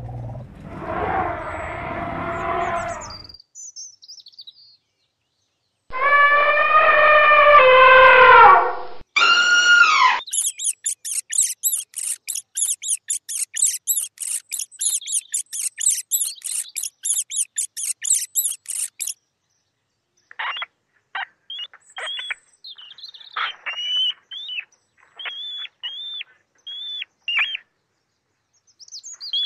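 A sequence of animal calls: a short elephant call, then a loud drawn-out call that falls in pitch, then mouse squeaks in fast, very high pulses of about four or five a second for several seconds, and finally scattered short high chirps.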